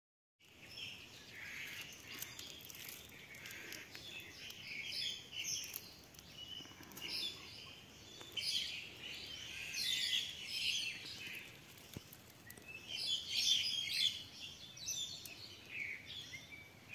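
Birds chirping and calling in woodland, a busy chatter of short high chirps that swells twice, about ten seconds in and again near fourteen seconds.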